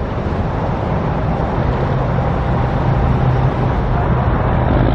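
Road traffic noise: a steady rush, with a motor vehicle's low engine hum growing louder through the middle.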